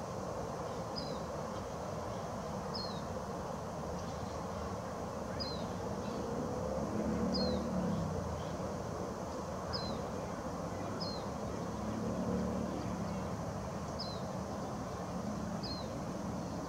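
Outdoor field ambience: a steady low rumble that swells twice, near the middle and about three-quarters through. Over it a bird gives a short, high, downward-sliding chirp every one to two and a half seconds.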